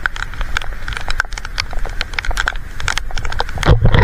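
Raindrops ticking quickly and irregularly right at the microphone, over a low wind rumble on the microphone, with a stronger gust near the end.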